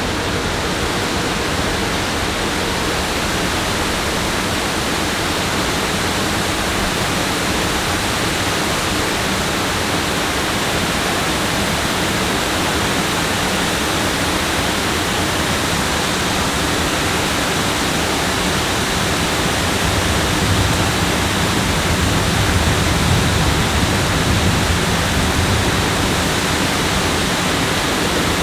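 Steady rushing water noise, even and unbroken, swelling slightly in its low rumble about twenty seconds in.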